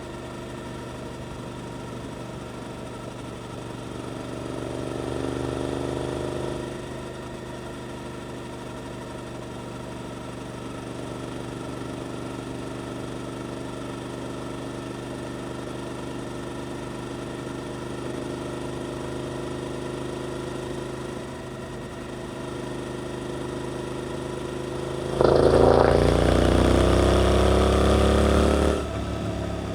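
Suzuki GSX-8S 776 cc parallel-twin with an Arrows aftermarket exhaust, running at fairly steady revs with a brief rise in pitch a few seconds in. About 25 seconds in it opens up hard, suddenly much louder with the revs climbing, then drops back just before the end.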